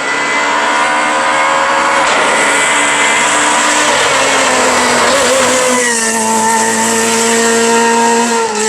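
Renault Clio R3 rally car's four-cylinder engine running hard at high revs. There is a rushing noisy stretch midway, then the pitch drops about five seconds in and holds steady at a lower note.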